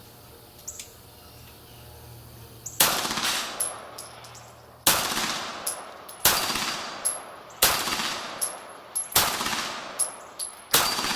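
Beretta 92G Elite Compact 9 mm pistol firing six shots, the first about three seconds in and then roughly one every second and a half. Short metallic pings follow several of the shots.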